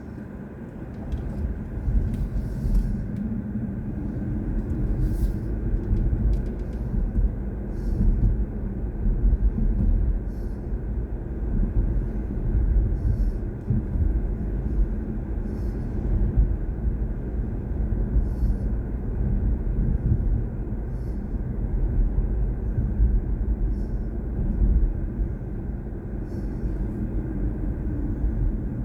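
Low, steady road and tyre rumble heard inside the cabin of a BMW i4 M50, an electric car with no engine note. The rumble gets louder about a second in as the car moves off.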